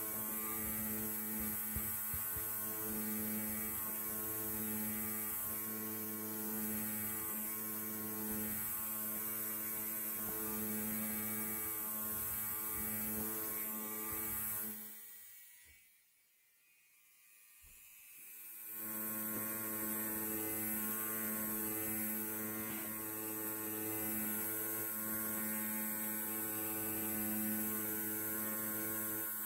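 Electric hair clipper buzzing steadily. About halfway it fades out to near silence for a second or two, then fades back in and buzzes on.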